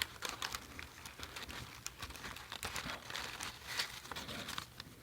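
A hamburger's wrapper being unwrapped by hand, crinkling and rustling in many small irregular crackles.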